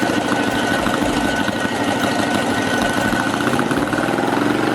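Tatra 603's air-cooled 2.5-litre V8 idling steadily, with an even, rapid firing beat.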